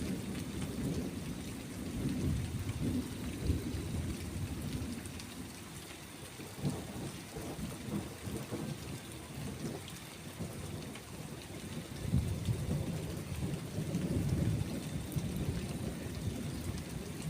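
Steady rainfall with rolling thunder: the low rumble swells in the first few seconds, fades in the middle, and swells again about twelve seconds in.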